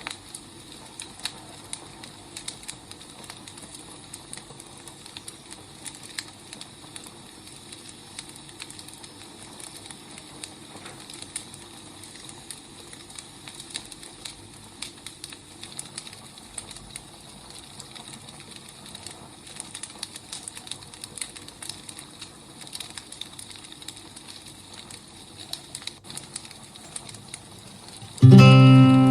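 Wood fire crackling, with frequent irregular pops and snaps over a steady low hiss. Acoustic guitar music starts suddenly and loudly near the end.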